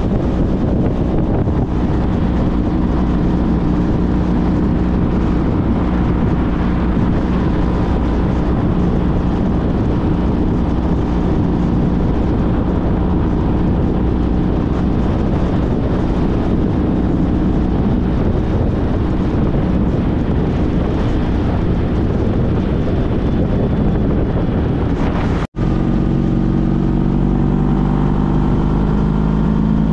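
Honda CTX1300's V4 engine running steadily while riding, with wind noise on the microphone. About 25 seconds in there is a brief dropout, after which the engine note rises as the bike accelerates.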